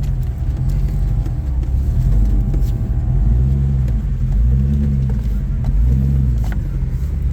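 Off-road rock-crawling vehicle's engine rumbling and revving in repeated rising and falling surges as it climbs over boulders, with a thin steady whine during the first half and a few sharp knocks.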